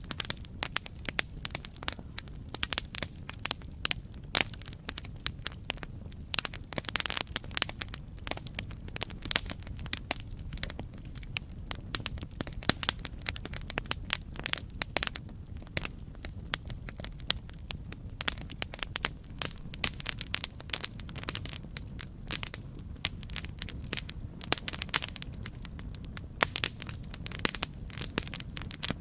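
Campfire crackling: a steady run of sharp pops and snaps over a low, even rumble of the burning fire.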